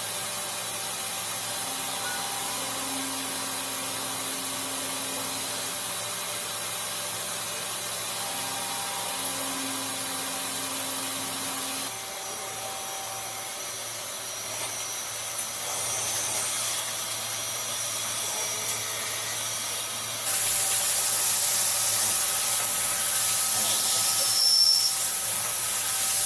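CNC turn-mill centre running, with a steady hiss and a few steady machine tones. The tones change about halfway through, and the sound gets louder about three-quarters of the way in.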